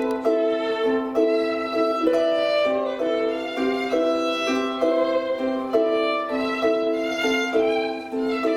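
Chamber ensemble of flute, harp, violin, cello, double bass and piano playing a slow piece, the violin prominent. A melody moves in notes about half a second long over a held low note.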